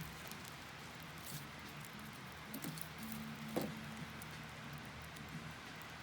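Wood fire burning in a fire pit, crackling with scattered small pops and one louder pop about three and a half seconds in.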